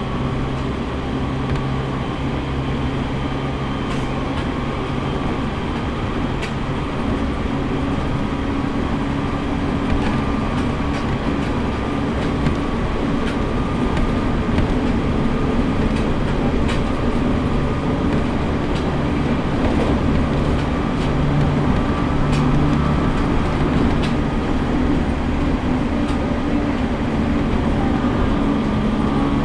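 Running sound heard inside an E501 series electric train on the move: a steady hum of the traction motors at a few pitches over wheel and rail noise, with faint clicks from the track, getting slightly louder.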